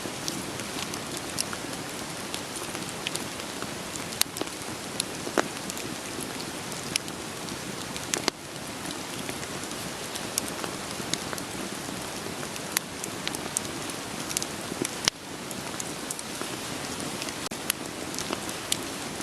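Steady rain falling, mixed with a wood fire crackling: sharp irregular pops and snaps from burning firewood over an even hiss of rain.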